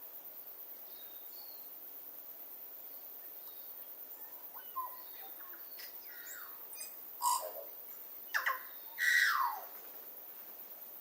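Tui singing: a varied phrase of high whistles, clicks and sharp notes that builds from about halfway in, ending in several loud falling whistles.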